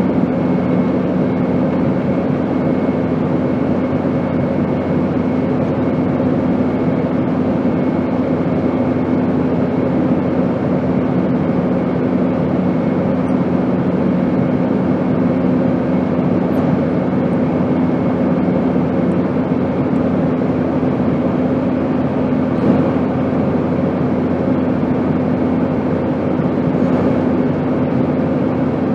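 Steady airplane drone: an even rushing hiss with a low, constant hum.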